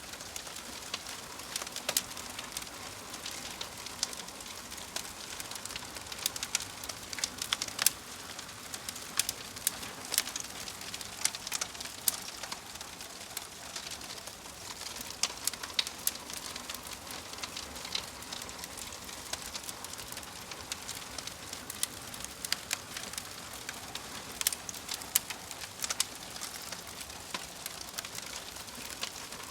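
Wood fire crackling: a steady hiss broken by frequent, irregular sharp pops and snaps.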